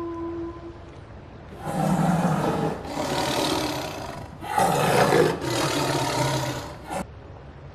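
A large animal roars twice, two long rough roars one after the other, with a short sharp sound right after the second.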